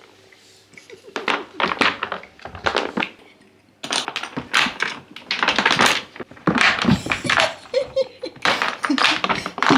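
Rapid, irregular knocks, taps and scrapes on a hollow plastic cat toilet as cats clamber and play in it, starting about a second in.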